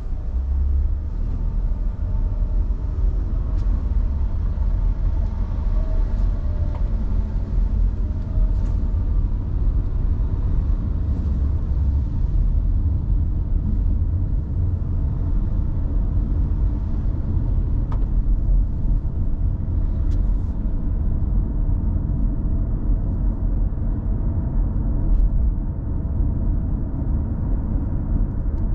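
Car driving, heard from inside the cabin: a steady low rumble of engine and road noise, with a few faint ticks.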